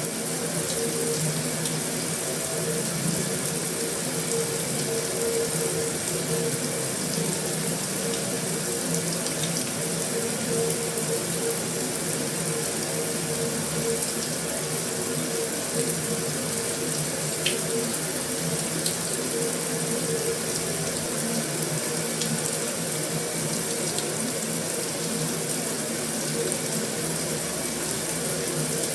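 Heavy rain drumming steadily on a metal roof, an even rushing hiss with a few faint drop ticks and a low steady tone underneath.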